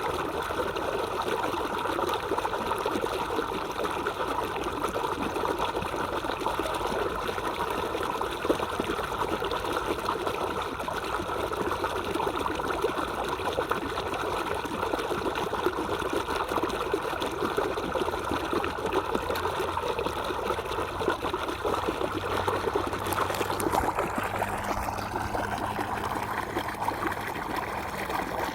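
A small stream of water trickling and babbling steadily. About 24 seconds in, the water's sound shifts slightly in character.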